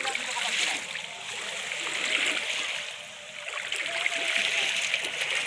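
River waves washing against the bank and ghat steps, swelling and falling back about every two seconds. They are the wake of a passing ship.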